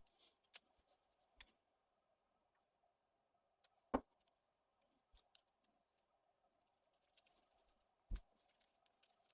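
Small clicks and taps of RC car parts and hand tools being handled on a workbench, over near silence. The loudest knock comes about four seconds in and another near the end, with lighter ticks between.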